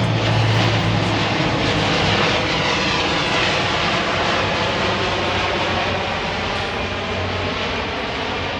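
Fixed-wing aircraft engine passing overhead, loud, with a low steady drone, slowly fading over the last few seconds.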